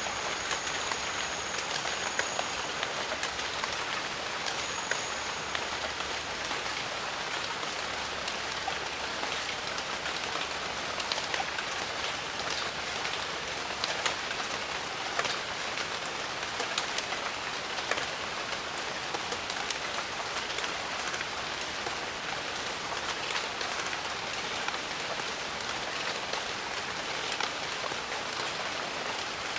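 Steady rain falling in the jungle, with many single drops striking sharply close by.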